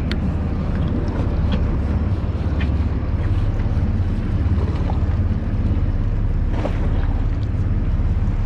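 Fishing boat's engine running with a steady low drone, wind buffeting the microphone, and a few light knocks on deck.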